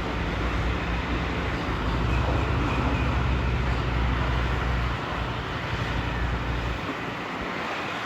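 Boat engine running at low speed, a steady low rumble that fades away over the last few seconds.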